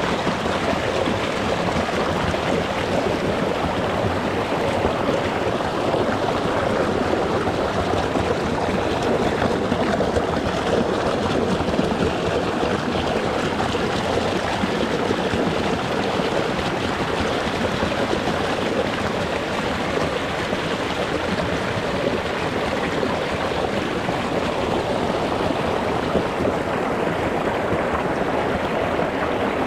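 Water of a small rocky stream flowing and splashing over stones, heard close up as a steady, even rush with no breaks.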